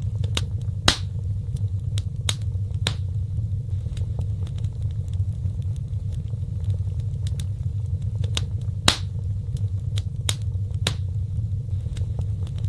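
Wood fire crackling in a fireplace: sharp, irregular pops every second or two, two of them louder (about a second in and near nine seconds), over a steady low rumble of the burning fire.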